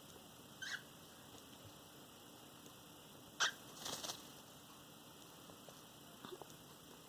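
A few short, faint scratches and taps from baby cockatiels moving about, stretching and preening: the sharpest tap comes about three and a half seconds in, with a short scratchy rustle just after it.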